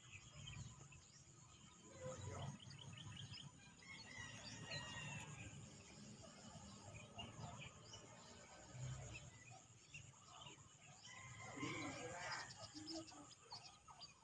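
Faint chirping and calls of several small birds, scattered throughout, over a low, uneven rumble.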